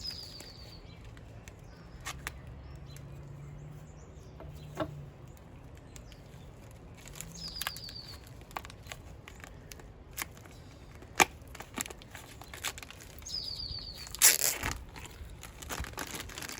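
Rustling and scattered clicks of bird-food packaging being handled, with a louder rustle near the end. A songbird sings the same short, quick run of high chirps three times, several seconds apart.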